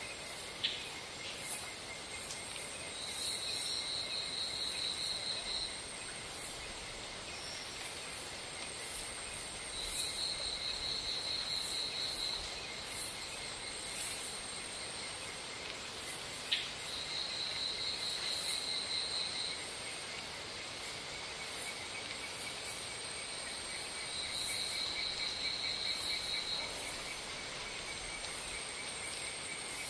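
Insects calling together: a steady high buzzing, with a pulsed trill that starts up about every seven seconds and lasts about two and a half seconds each time. A few sharp clicks stand out.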